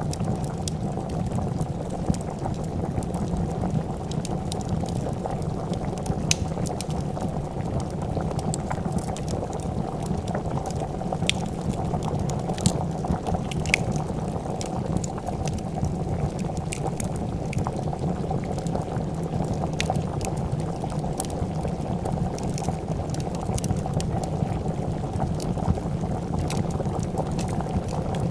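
Pot of soup boiling with a steady, dense bubbling, over which a wood fire crackles with scattered sharp pops.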